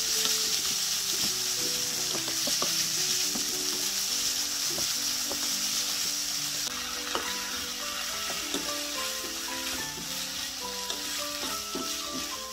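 Minced meat and diced vegetables sizzling in a frying pan with a steady hiss, stirred and pushed around with a wooden spatula that makes small scraping clicks against the pan. Soft background music with short held notes plays over it.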